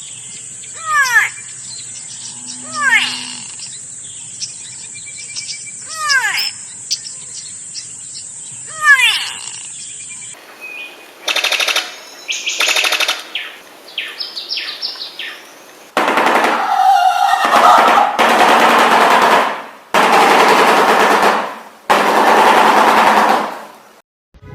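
Red-tailed hawk screaming four times, each a harsh descending cry, over a steady high insect-like hiss. About ten seconds in it gives way to a shoebill's rapid bill-clattering, a machine-gun-like rattle in several bursts, and from about sixteen seconds four loud harsh bird calls follow, each lasting about two seconds.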